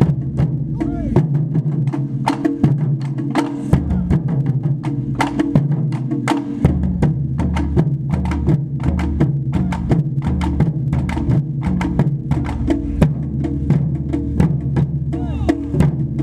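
Japanese taiko drums played as an ensemble: a dense, rhythmic run of sharp stick strikes over a low drum boom.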